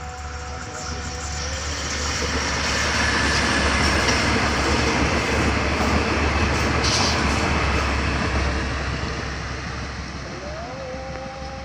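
Kualanamu Airport rail link train passing through the station: wheel and engine rumble swells as it approaches, is loudest for several seconds as it goes by, then fades away. A rising pitched tone comes in near the end.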